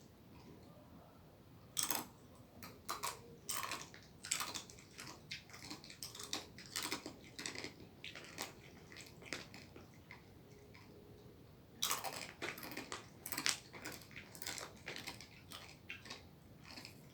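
Close-up eating sounds: bites and chewing, with irregular crackling clicks in two spells, the first starting about two seconds in and the second about twelve seconds in, and quieter stretches between.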